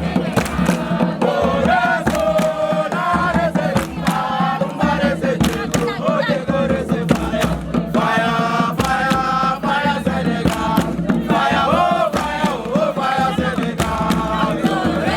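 A group of voices chanting and singing together around a campfire, with sharp percussive hits throughout.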